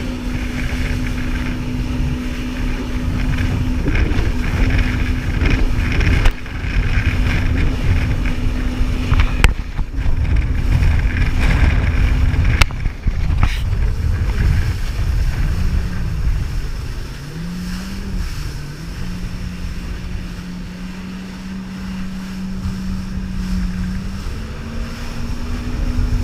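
Jet ski engine running at a steady pitch over rushing water and wind noise, with a few sharp knocks around the middle. Partway through, the engine note drops, wavers, and settles lower, then rises a little near the end.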